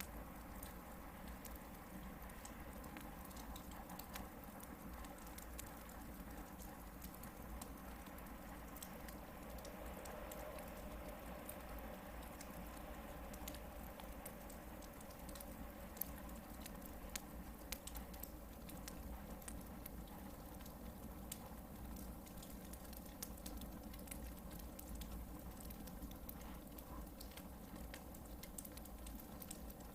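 Campfire of hardwood logs burning, with frequent small crackles and pops over a low, steady hiss, and a couple of sharper pops about halfway through.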